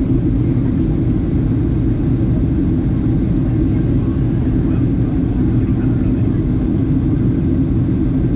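Steady cabin noise of a Boeing 737-800 in flight: an even, loud, low rumble of engines and airflow heard from inside the cabin.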